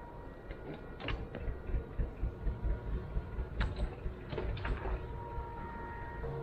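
Gardner 2LW two-cylinder diesel engine of a narrowboat running with a slow, regular thump of about four beats a second, getting louder about a second in. A few sharp clicks or knocks sound over it.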